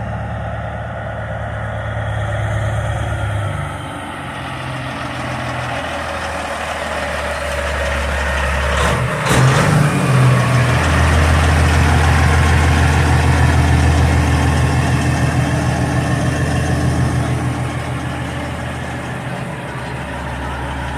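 A vehicle engine running steadily with a low hum. There is a brief click about nine seconds in, and the engine grows louder from about ten seconds in.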